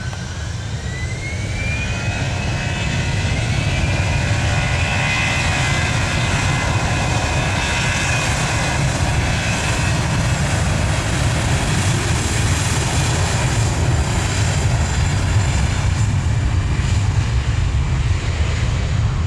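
Jet airliner's engines: a whine that rises in pitch over the first couple of seconds, then a loud, steady jet noise with a deep rumble underneath.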